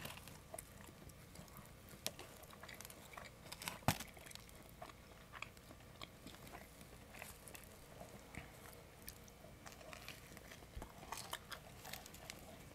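People chewing pizza close to the microphone: faint, irregular wet mouth clicks and crunches, with one sharper click about four seconds in.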